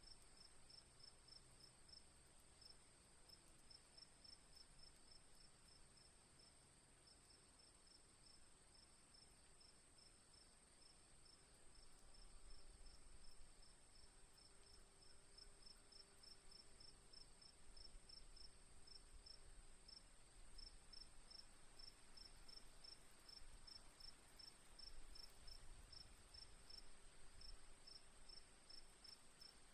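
Faint crickets chirping in a steady, even rhythm, with a continuous high insect-like drone behind them.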